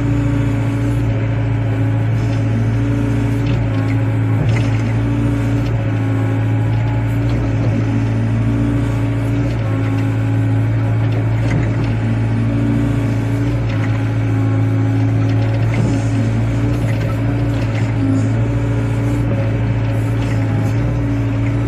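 Wheeled excavator's diesel engine running at a steady speed, a constant low hum with a few faint knocks.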